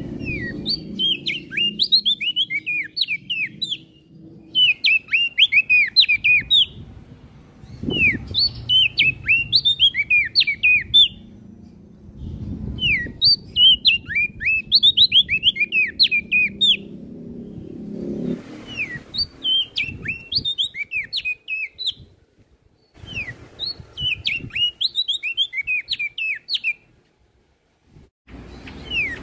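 Prenjak daun songbird singing in repeated bursts of rapid, high, down-slurred chirps. Each phrase lasts about two to three seconds, with short pauses between, over a faint low background rumble.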